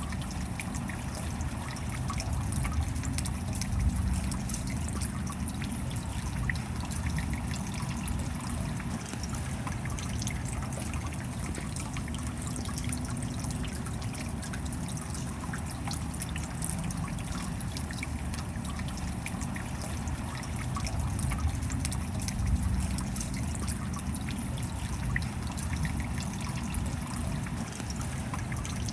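Steady rain with water trickling and dripping, many small drops ticking over a low rushing wash, swelling slightly a few times.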